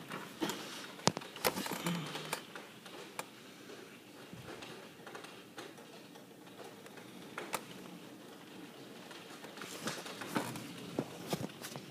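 Rain falling, with irregular sharp taps of drops hitting a hard surface close by, more of them near the start and again near the end.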